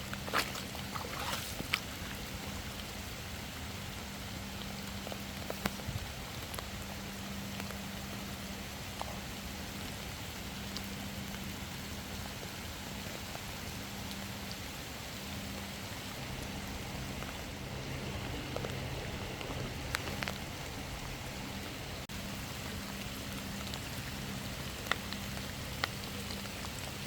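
Steady rain falling, with scattered small drips and ticks and a steady low hum underneath.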